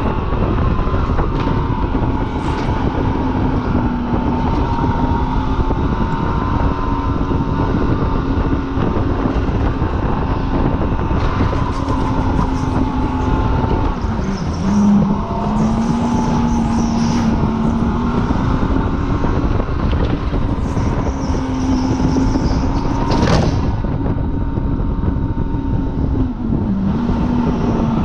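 Supercharged engine running hard at steady high revs through a track lap, its pitch wavering slightly and dipping briefly midway before rising again, with wind rush on the microphone and a single sharp knock late on.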